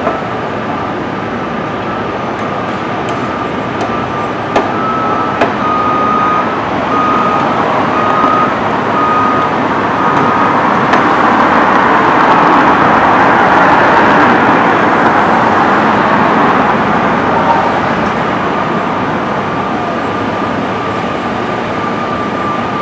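Train rolling along: a steady rumble with a high whine that comes and goes in the first half and a couple of sharp clicks, growing louder around the middle.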